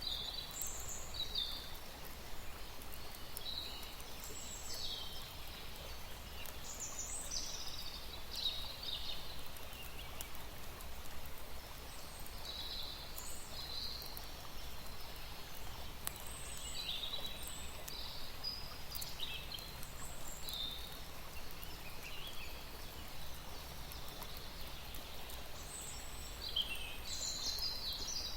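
Birds chirping and calling in short phrases over and over, over a steady background hiss.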